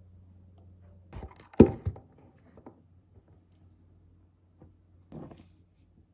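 A few knocks and thumps of something being handled, the loudest about one and a half seconds in and a softer one near the end, over a low steady hum.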